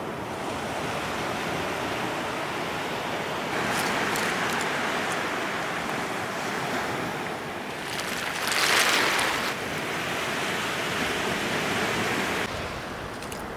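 Ocean surf on a beach: waves breaking and washing in, rising and falling, with one louder wave crashing about eight seconds in.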